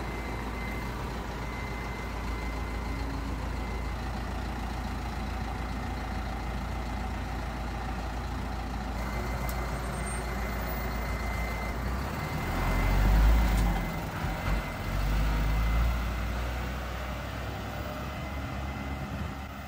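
A truck engine runs steadily with a low hum. About twelve seconds in, a louder low rumble swells up, dips, then fades by about sixteen seconds.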